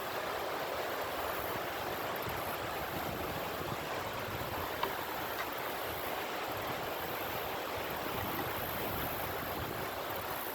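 Steady rush of flowing river water, with wind buffeting the microphone in an uneven low rumble. A single faint click about halfway through.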